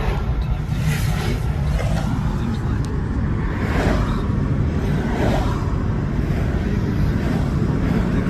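Steady low rumble of a car driving, engine and road noise heard from inside the cabin, with faint voices now and then.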